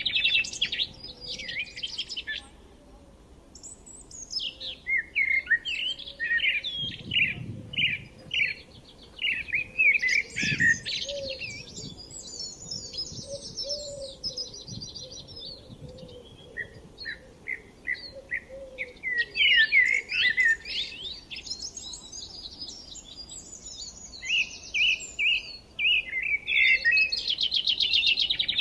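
Songbirds chirping and singing: quick repeated chirps and fast high trills in bursts, with short pauses between.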